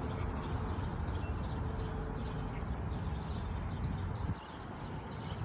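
Small birds chirping over a steady low rumble; the rumble drops away suddenly about four seconds in.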